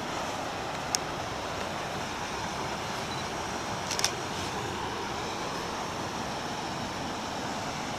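Creek in high water rushing steadily, with a sharp click about a second in and a brief double click around four seconds.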